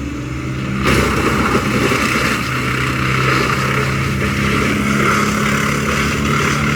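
A small engine running steadily, with a harsher, noisier sound coming in about a second in.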